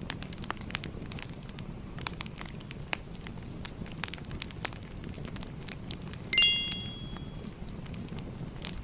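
Fire crackling with small scattered pops throughout. About six seconds in, a single bright chime strikes and fades over about a second: the Pomodoro timer's signal that the 25-minute study block is over.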